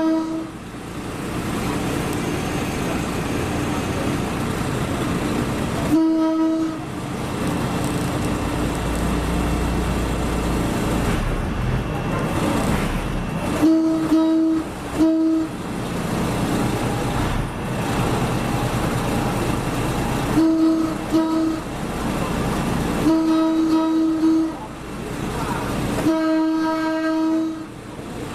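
A train sounds its horn again and again over the rumble of the moving train. The single-tone horn gives short toots, some in quick pairs, and two longer blasts near the end.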